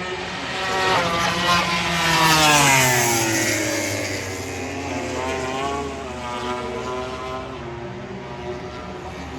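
MotoGP race bikes passing at speed: one engine note swells to its loudest about two and a half seconds in and falls in pitch as it goes by, and a second bike's engine follows a few seconds later.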